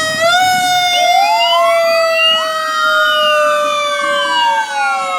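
Fire truck sirens wailing together, several tones slowly rising and falling against each other.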